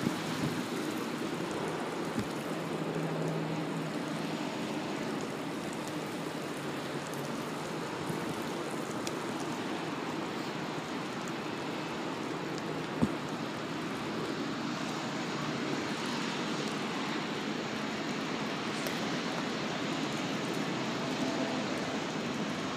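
Steady hiss of rain, with a faint low hum about two to four seconds in and a single sharp knock around the middle.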